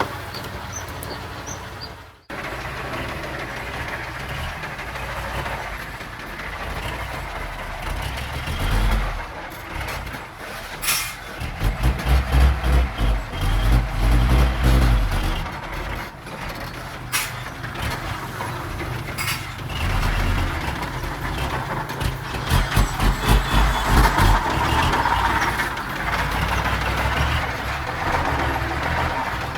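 Heavy diesel earthmoving machinery running, its low rumble swelling in pulses as the engine comes under load, with a few sharp clanks.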